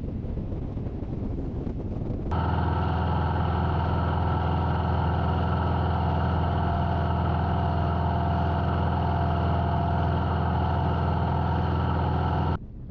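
Wind rushing over the microphone. A couple of seconds in, it cuts abruptly to a motorcycle engine running at a steady cruising speed, its pitch unchanging, which cuts out just as suddenly near the end.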